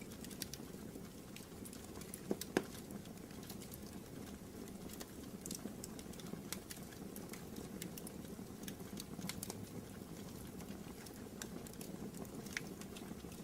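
Wood fire in a fireplace crackling: irregular sharp pops and snaps over a soft, steady low rumble, with a louder pop about two and a half seconds in.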